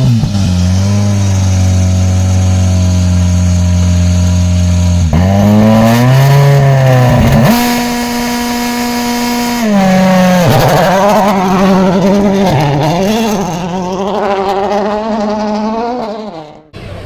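Rally car engine running hard at high, steady revs for about five seconds, then a gear change and more revving that holds, then swings up and down before dying away near the end.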